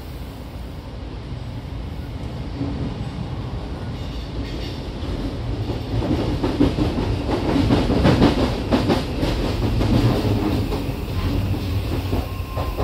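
Interior running noise of an Odakyu 5000-series electric commuter train: a steady low rumble of wheels on rail that grows louder about halfway through, with rapid clatter over rail joints, then eases off near the end.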